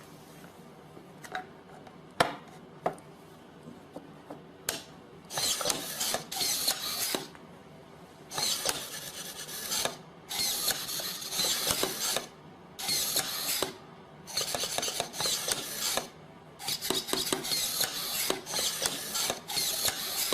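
A few sharp clicks, then about ten rasping, scraping strokes of one to two seconds each, with short pauses between them.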